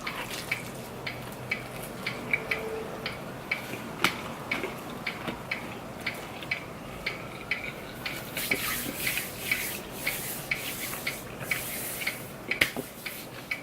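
A clock ticking steadily about twice a second, under close eating noises of chewing pizza and wings, which grow busier for a few seconds near the end.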